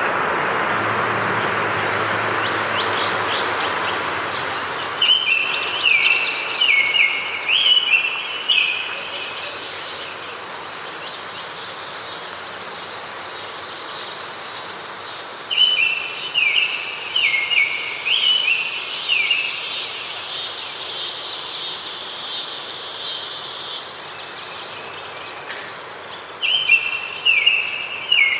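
Forest ambience: a steady, high-pitched chorus of crickets or other insects. A bird sings three bouts of quick, repeated chirping notes, about ten seconds apart. A soft rushing noise under the chorus fades away about four seconds in.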